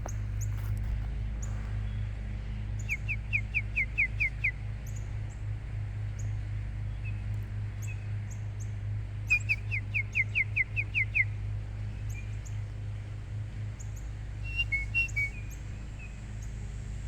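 A songbird singing two phrases of about eight quick, downward-slurred notes each, several seconds apart, with a few short chirps later on. Under it runs a steady low hum.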